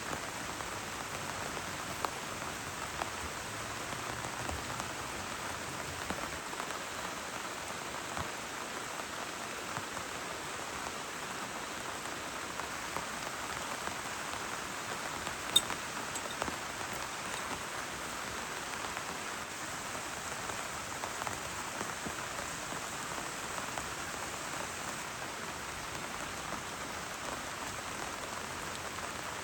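Steady rain falling, a dense even patter with scattered closer drop impacts and one sharp tick about halfway through.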